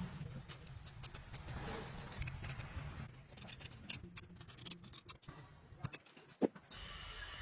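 Scattered light clicks and taps of hand work over a low hum, with one sharp knock about six and a half seconds in. After the knock a steady hiss with a faint high whine sets in.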